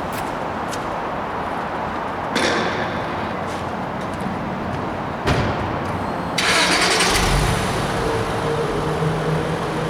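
2000 Acura TL's 3.2-litre V6 starting through its stock dual exhaust: after two short sharp sounds, it cranks and fires about six and a half seconds in, then settles into a steady idle.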